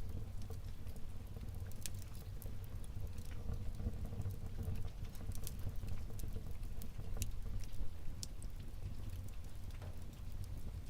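Wood fire burning in a fireplace: a steady low rumble of flame with irregular sharp crackles and pops from the logs.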